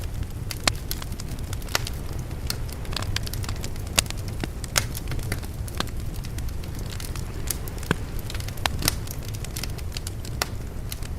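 Open fire crackling with frequent sharp pops, several a second, over a steady low rumble.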